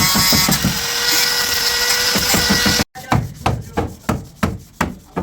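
Rhythmic sanding strokes on car bodywork. The strokes are fast and run together with a steady hiss at first; after an abrupt cut about three seconds in, they are slower and separate, about two or three a second.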